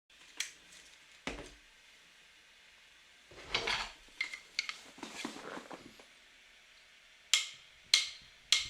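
Handling noise: a few scattered sharp clicks and light clinks of small hard objects, with short bursts of rustling in between.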